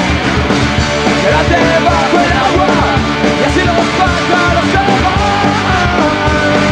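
Live punk rock band playing an instrumental stretch of a song: drums and electric guitars, with a wavering lead melody on top.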